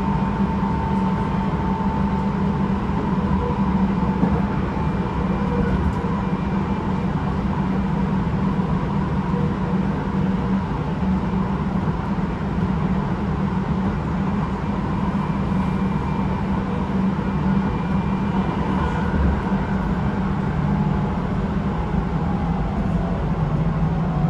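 Interior running sound of a Tobu 9050 series electric train, a Toyo GTO-VVVF car, travelling steadily at speed: wheels on rail and motor noise with a steady low hum, and the car's air conditioning running.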